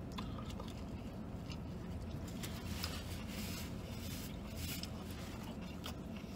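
Quiet chewing of a mouthful of chicken sandwich, with soft rustles of a paper napkin and sandwich wrapper, over a steady low hum inside a vehicle cabin.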